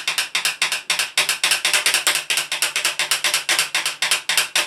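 Fast, even run of sharp percussive strikes, about nine a second, played as a drum roll for an announcement.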